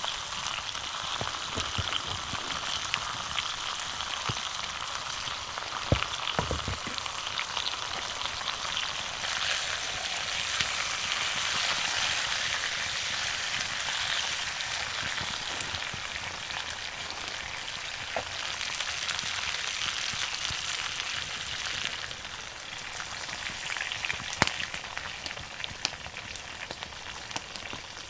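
Steak sizzling over a wood fire: a steady frying hiss with scattered pops.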